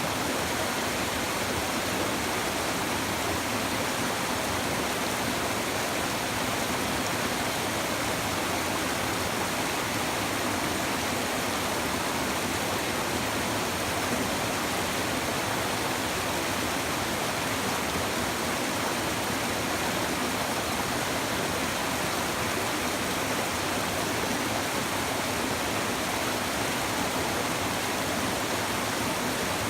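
River water babbling and rushing steadily over stones, an even flowing noise with no breaks.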